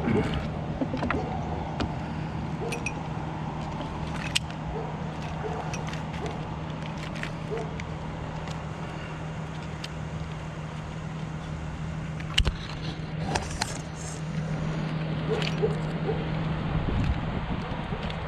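Altec bucket truck's engine running steadily, with a few sharp clicks and light knocks from work at the bucket.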